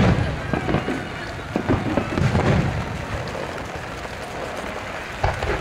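Fireworks bursting with several low booms, the loudest at the start and again near the end, over a steady hiss of rain.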